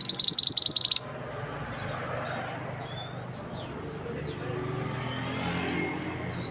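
Mantenan bird singing a loud, rapid trill of about a dozen high clipped notes lasting about a second. A few faint short chirps follow over steady background noise.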